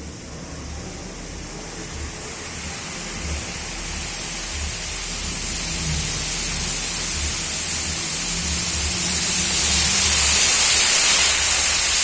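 Water spray nozzles of a rain test chamber showering water, a steady hiss like heavy rain that grows steadily louder.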